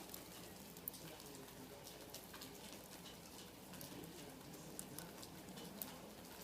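Faint, steady rain falling, with scattered drops ticking.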